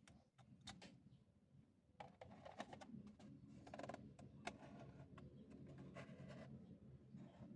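Faint handling sounds of unboxing diecast toy trucks: a few sharp clicks, then from about two seconds in a steady run of scratching and rustling of the packaging.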